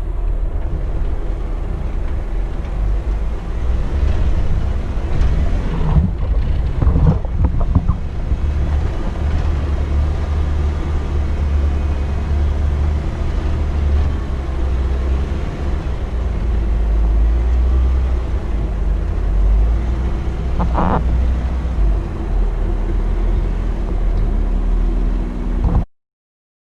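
Jeep engine running with a steady low rumble, with a few short sharp sounds a quarter of the way in and again near the end. The sound cuts off suddenly just before the end.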